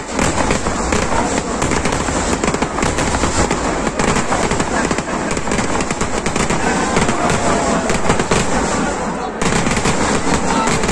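Fireworks display: a dense, rapid string of firecracker bangs going off one after another without pause.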